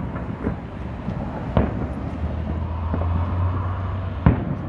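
Aerial firework shells bursting: several sharp booms a second or more apart, the loudest near the end, over a low rumble.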